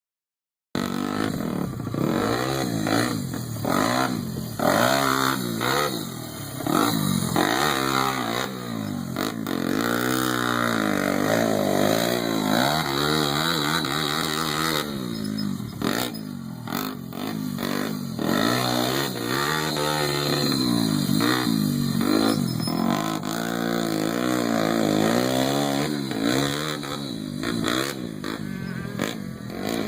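Pit bike engine revving up and down over and over, its pitch rising and falling as the throttle is opened and closed.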